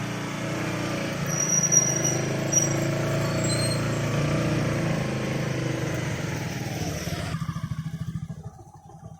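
A motor vehicle's engine running with a rapid low throb, dying away about eight seconds in.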